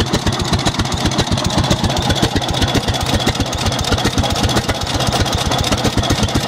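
1916 International Harvester Titan 10-20's two-cylinder engine running steadily at idle with an even, rapid low beat.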